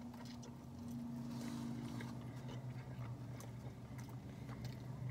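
Close-up chewing of a taco, with soft wet mouth clicks and smacks, over a steady low hum.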